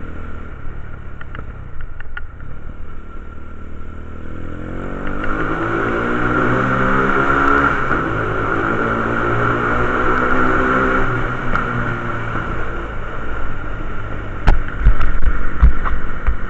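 Quad bike (ATV) engine running at low revs, then revving up from about five seconds in and held at higher revs for several seconds before settling back down. Loud knocks near the end.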